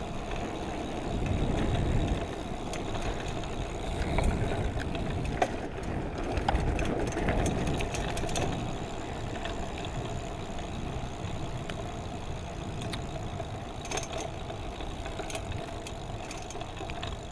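Riding noise on a wet road: a steady vehicle engine hum with low, gusty rumbles of wind on the microphone and a few light clicks.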